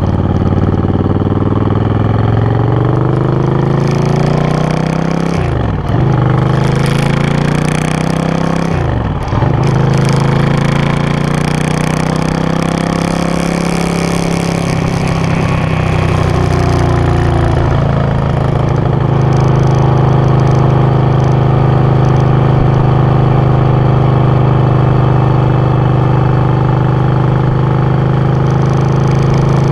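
Suzuki VS800's V-twin engine running loud through its exhaust: the revs climb, dip sharply twice in quick succession, climb again, then hold at a steady pitch for the last part.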